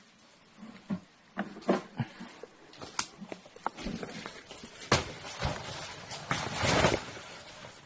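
Footsteps and rustling through undergrowth: irregular knocks and crackles, with a louder knock about five seconds in and a longer rustle near the end.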